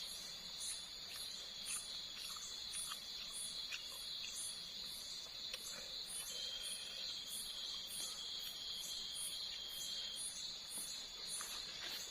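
Night insects, crickets among them: a steady high buzzing drone with repeated high chirps, about three a second, over a few faint scattered clicks.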